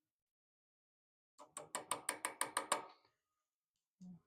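A small hand tool clicking rapidly against the wrought-iron cross-guard: about nine sharp taps in a second and a half, raising tiny nicks in the iron to grip the brass and copper inlay. A single short, duller knock follows near the end.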